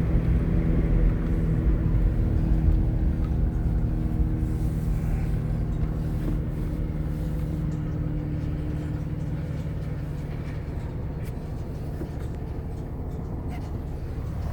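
Car driving: a steady low rumble of engine and road noise with a held engine hum, easing slightly in loudness toward the end.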